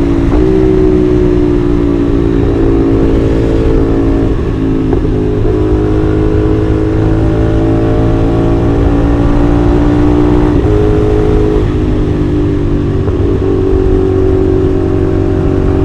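CFMoto 450SR parallel-twin engine with a 270-degree crank, running loud and steady under way. Its pitch climbs slowly, with a few sudden steps, the clearest about ten and a half seconds in.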